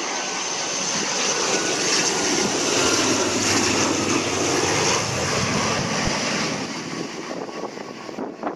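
Airliner engines passing close by, swelling to a peak about three to five seconds in and then fading.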